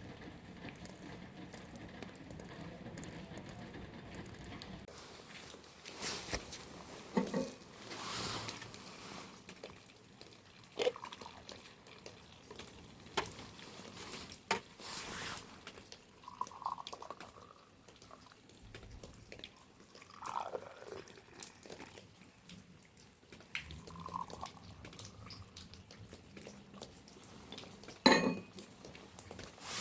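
Water dripping and trickling, with scattered short knocks and clicks and a sharper, louder knock near the end.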